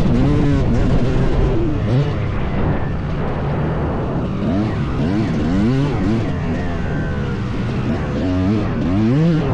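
Two-stroke dirt bike engine being ridden hard, its pitch climbing and dropping back again and again as the throttle is worked and gears change.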